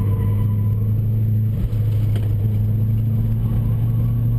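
Opel Coupé Turbo's engine heard from inside the cabin while the car is driven hard, a steady drone with a brief dip about a second and a half in, its pitch creeping up near the end.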